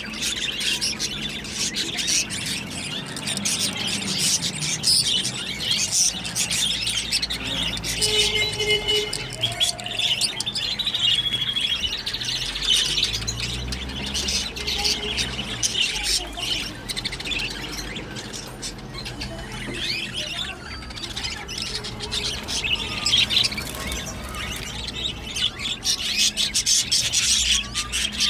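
A mixed flock of canaries, European goldfinches and Java sparrows in an aviary, chirping and singing continuously with many overlapping short calls and trills, over a low steady background rumble.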